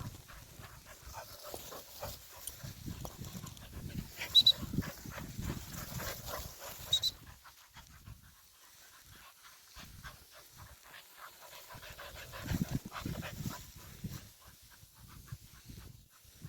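Dog panting in short, uneven breaths, with a couple of brief sharp sounds about four and seven seconds in.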